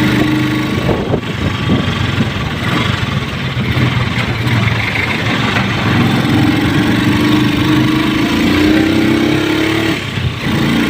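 Motorcycle engine running under way, its pitch climbing slowly as it speeds up over the second half, then dropping briefly near the end.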